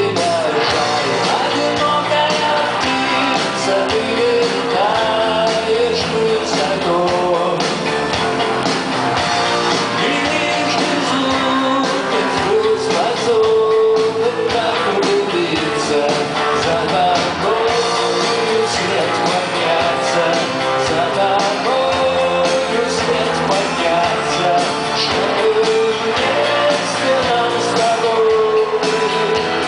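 Live rock band playing a song through a concert sound system, electric guitars with a man singing the melody, recorded from the audience.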